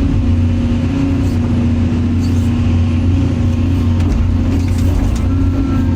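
Excavator's diesel engine running steadily under the operator, a low even drone with a steady hum above it.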